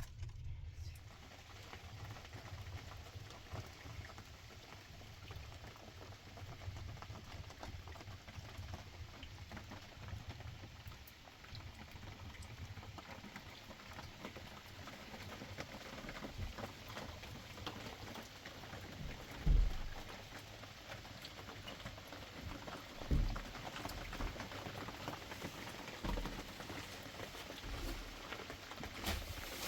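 Eggs sizzling as they fry in a hot pan, a steady crackling hiss that starts as they go in. A few dull thuds come in the second half.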